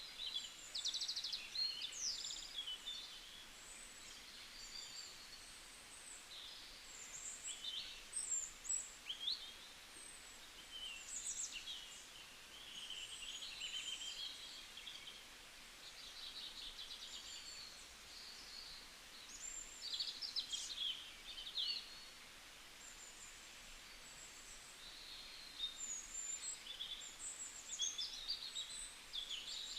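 Several birds chirping and singing: a busy run of short high chirps, quick trills and sliding whistles.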